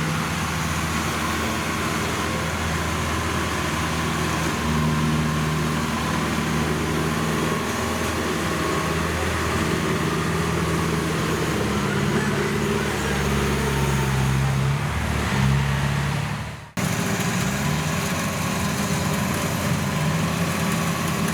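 Engine of rice-harvesting farm machinery running steadily, its pitch dipping and rising a little as the load changes. The sound breaks off abruptly near the end and picks up again at once.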